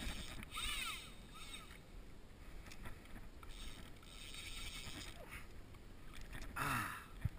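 Water sloshing against a kayak, with two short louder swishes, one about a second in and one near the end, and a sharp knock just before the end.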